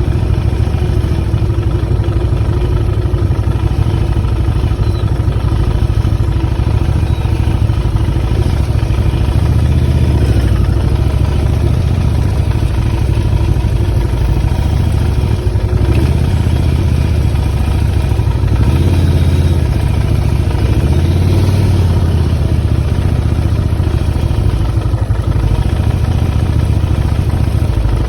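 Motorcycle engine running continuously with a low drone that swells and eases a few times, under a steady noise haze.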